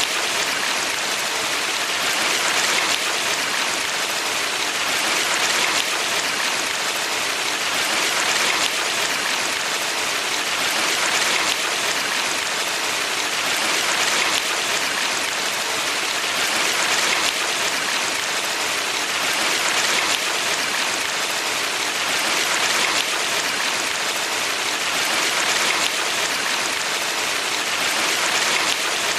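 Valley stream water rushing steadily, a dense even hiss that swells gently about every three seconds.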